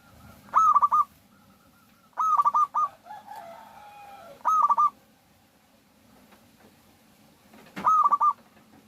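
Zebra dove (perkutut) cooing, the lure call used to draw perkutut: four short bursts, each a quick run of four or five clipped coos lasting about half a second, with a softer, lower wavering call between the second and third bursts.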